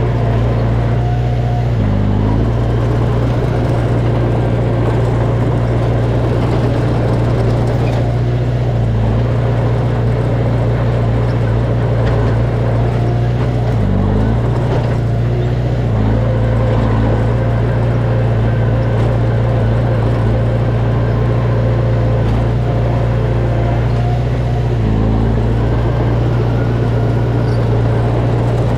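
Heavy-equipment diesel engine running steadily and loudly at a low, even pitch, with a few brief dips in pitch as the load changes.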